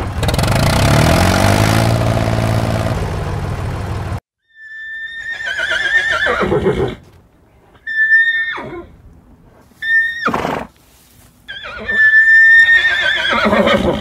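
A loud engine sound effect rising in pitch, which cuts off about four seconds in. Then a horse whinnies four times: two short neighs between two long ones.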